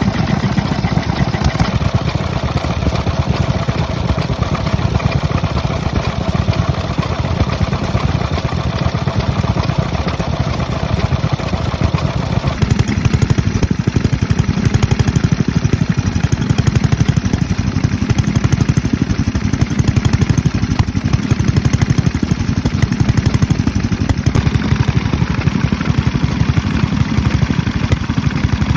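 Kubota ES30 292 cc stationary kerosene engine running steadily, a rapid, even beat of firing strokes. About twelve seconds in its sound turns deeper and heavier.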